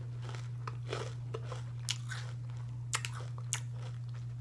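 A person chewing crunchy Takis Fuego rolled tortilla chips with the mouth closed: a run of soft crunches, with a few sharper cracks about two, three and three and a half seconds in, over a steady low hum.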